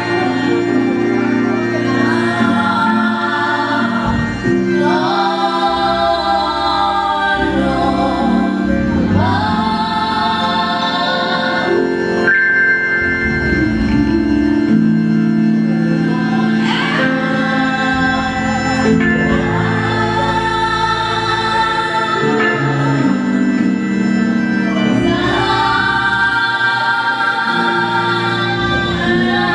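Choir singing a gospel hymn to organ accompaniment, the voices in phrases of a few seconds each over held organ chords.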